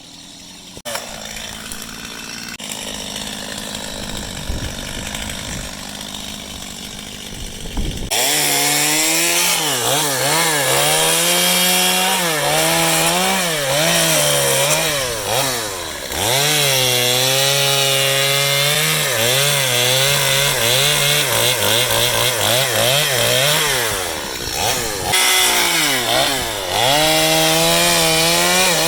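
Chainsaw revving at high speed while cutting, its pitch sagging and recovering again and again as the chain bites into the wood. It starts abruptly about eight seconds in, after a quieter, gradually swelling machine noise.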